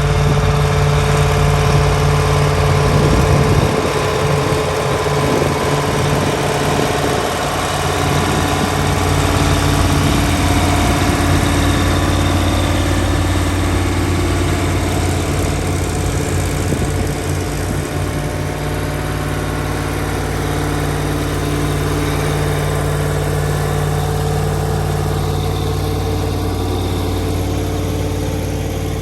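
Massey Ferguson 4840's V8 diesel engine running steadily with a deep, even hum.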